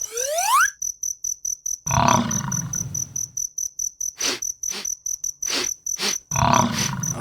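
Cricket chirping in a high, fast pulse that keeps going, with a cow mooing twice, about two seconds in and again near the end. A short rising whistle is heard at the very start, and a few sharp clicks come between the moos.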